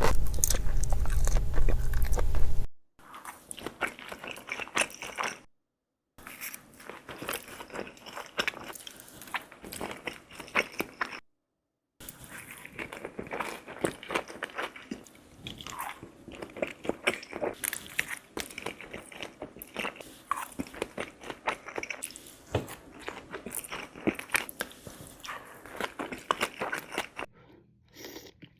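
Close-miked mukbang eating sounds: people biting into and chewing seafood, with crunches and wet clicks. Loud with a low rumble for the first few seconds, then quieter, broken by two brief silent cuts between clips.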